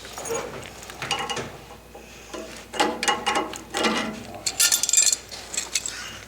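Metal tools and plumbing fittings clinking and knocking in a string of short sounds, with a louder scraping burst about three quarters of the way through.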